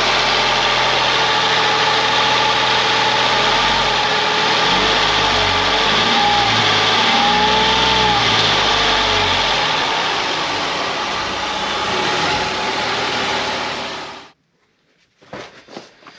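Ford Mondeo ST220's 3.0-litre Duratec V6 running on a test start after reassembly from a compression test. The engine speed rises and falls a little in the middle, and the sound cuts off suddenly near the end.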